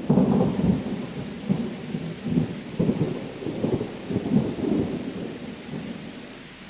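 Thunder rumbling over steady rain: it breaks in suddenly, rolls in several swells and slowly fades.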